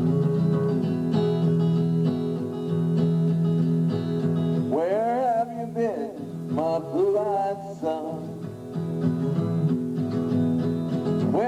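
Instrumental intro of a folk song: acoustic guitar playing held chords, with a wavering melody line that comes in twice around the middle.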